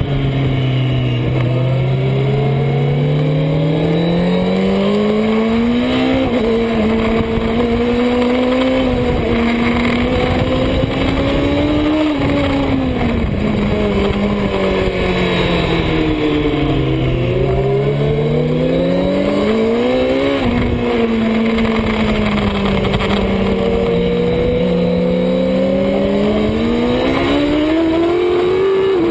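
Superbike engine running hard, its pitch climbing and falling as it accelerates and slows, with sharp pitch drops about twelve and twenty seconds in, over a steady rushing noise.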